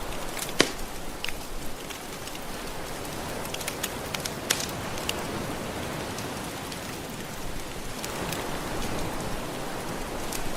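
Soft ocean waves washing on the shore, layered with the crackle of a wood fire: scattered sharp pops, the loudest less than a second in. The wash swells a little near the end as a wave comes in.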